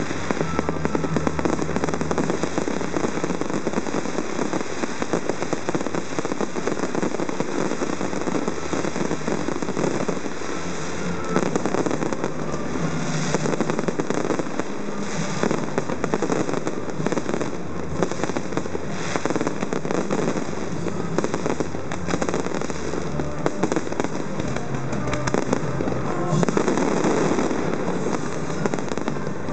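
Fireworks display going off: a dense, unbroken crackle of many pops and bangs, growing fuller near the end, with music playing underneath.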